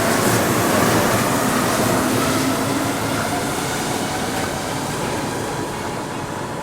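Tama Toshi Monorail train running, a steady rushing noise with faint motor whines that glide in pitch, slowly growing quieter.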